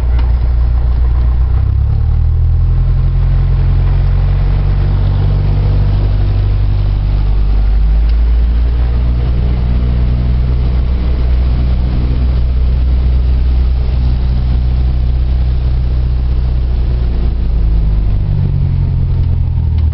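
Cessna 172 Skyhawk's piston engine and propeller droning steadily, the engine note shifting pitch about two seconds in and again near the end as the power setting changes.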